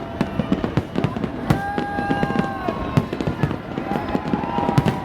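Aerial fireworks going off in a dense, continuous volley of bangs and crackles, with held whistling tones sounding over them, one about a second and a half in and another near the end.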